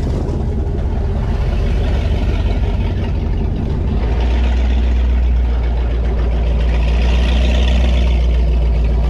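Donzi Classic 22 boat engine idling with a loud, low exhaust note. About four seconds in, the note steadies and grows slightly louder.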